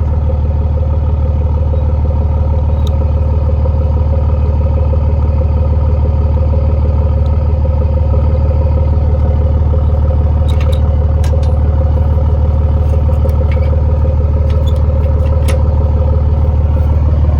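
Vehicle engine and road noise, a steady low drone that grows slightly louder, with a few light clicks and rattles in the second half.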